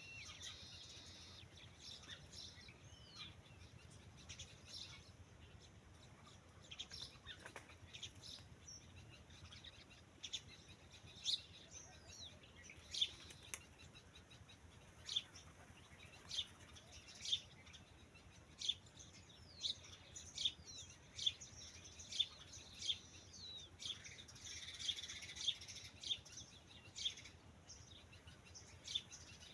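Birds chirping: short, high calls repeating about once a second, with fainter chirps and calls behind them.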